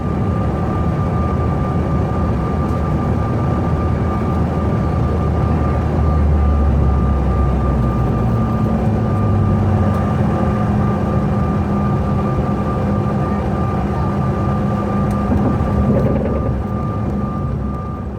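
Cabin noise inside a CRJ700 regional jet: a steady rush of engine and airflow with a constant high whine, and a deeper hum that swells about six to ten seconds in.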